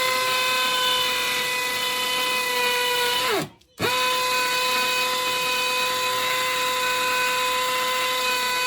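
Electric drill running at a steady high speed in two long runs, with a brief stop and restart about three and a half seconds in. It is boring into a very hard wall, and the bit is making little headway.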